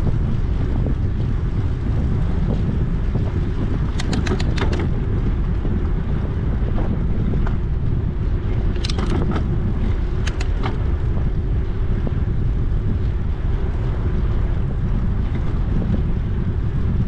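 Wind buffeting the microphone of a camera on a moving bicycle, a steady low rumble, with a quick run of sharp clicks about four seconds in and a few more clicks a few seconds later from the bike rattling.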